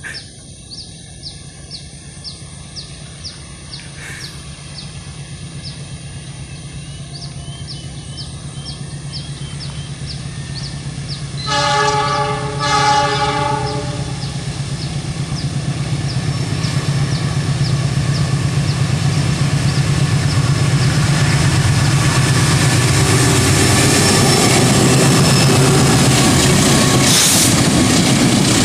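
Diesel locomotive of a container freight train approaching, its engine hum growing steadily louder; about twelve seconds in it sounds its horn in two blasts. From about twenty seconds the locomotive and its container wagons pass close by, with loud wheel-on-rail noise.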